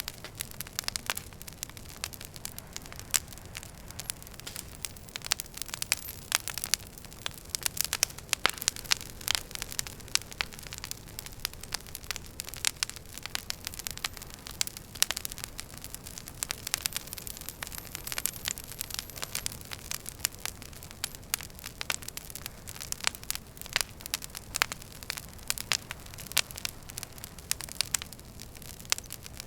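Wood fire burning in a fireplace: a steady low rumble of the flames with frequent sharp, irregular crackles and pops of the logs, busiest about six to ten seconds in.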